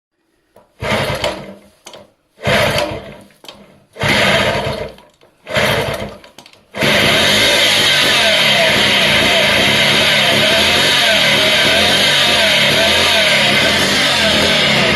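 Excelsior 98cc vintage motorbike's small two-stroke engine being kick-started: four kicks, each a brief burst that dies away, then it catches about seven seconds in and runs steadily.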